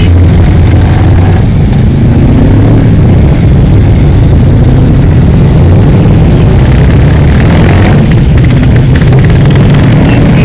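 Motorcycle engines running close by: a loud, steady low rumble with a few slow rises in pitch.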